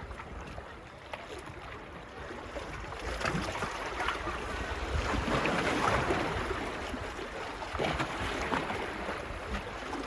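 Small waves washing onto the beach. The wash swells to its loudest about halfway through, then eases, with a low rumble of wind on the microphone beneath it.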